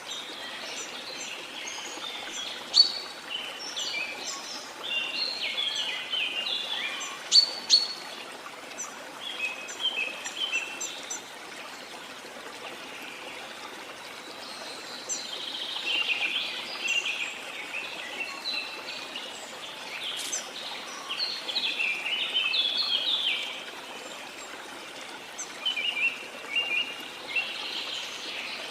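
Steady rush of falling, running water, with many birds singing and calling over it in clusters of short, quick notes, busiest in the first half and again after the midpoint.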